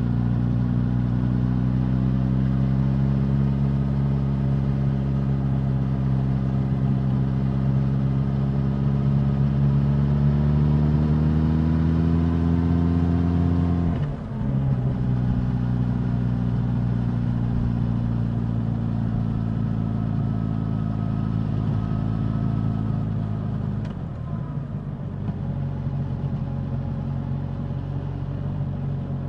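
Suzuki GSX-S1000 inline-four motorcycle engine and exhaust under way, the engine note slowly rising for the first half. About halfway through it briefly drops away, then runs on steady and slowly falling, with another short dip near the end.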